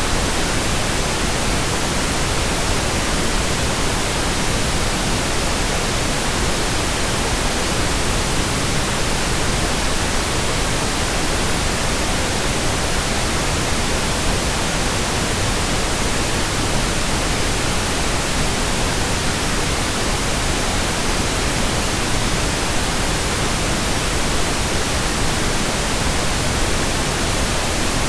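Steady, even white noise: a continuous hiss spread across the whole range, with no changes or events.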